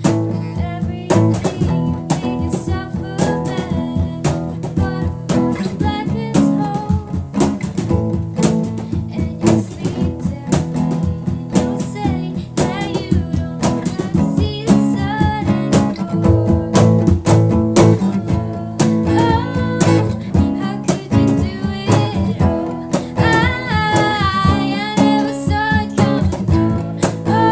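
Live acoustic cover performance: strummed guitars with a woman singing and beatboxed percussion keeping a steady beat.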